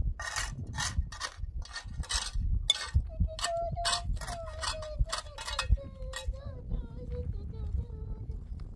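A run of short rasping or scraping strokes, about two a second, that stop about six and a half seconds in, with a faint held tone that slowly falls in pitch through the second half.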